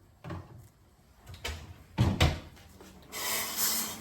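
Kitchen handling sounds: a couple of light knocks, then two sharp knocks close together about two seconds in, and a short hissing scrape near the end, like a drawer or cupboard being shut and slid.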